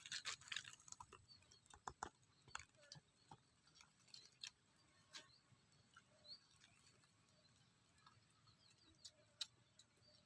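Faint, sparse crunching and chewing of crispy fried small birds, a few soft clicks a second at first, thinning out to occasional ones.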